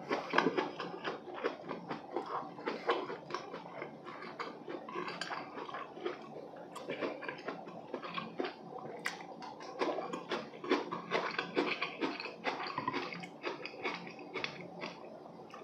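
Close-miked chewing and wet, smacking mouth sounds of a man eating braised chicken (jjimdak), with occasional clicks of metal chopsticks against the dishes.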